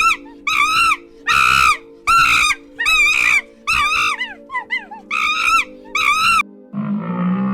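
An animal calling in a rapid series of short, high, wavering cries, a bit more than one a second, over a steady background drone. About seven seconds in, a lower, drawn-out call takes over.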